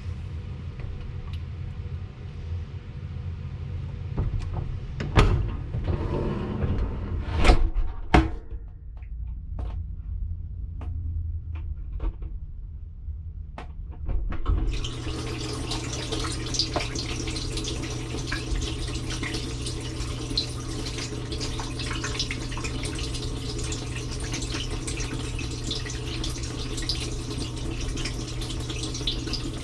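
Dishwasher starting its wash cycle, heard from inside the tub: a low hum with a few sharp knocks and clicks, then about halfway the wash pump starts with a steady hum and water sprays hard over the dishes.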